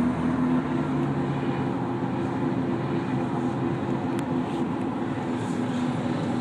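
Steady vehicle engine drone: an even rushing noise with several low humming tones held throughout.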